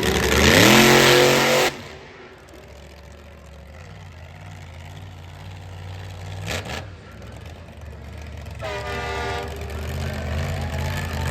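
Monster truck engine revving hard, rising in pitch, then cutting off abruptly after under two seconds and settling to a low idle. A short knock comes midway, and a brief higher pitched tone near the end.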